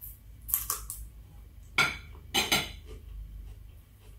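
A metal spoon clinking against a plate: a few light clicks, then two louder knocks about two seconds in.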